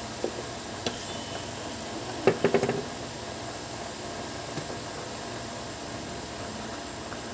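A few light clicks, then a quick cluster of four or five knocks about two seconds in, over a steady background hiss.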